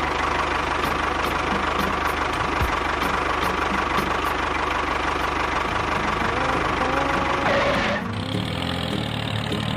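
A small motor running with a steady, rattling buzz that cuts off suddenly about eight seconds in.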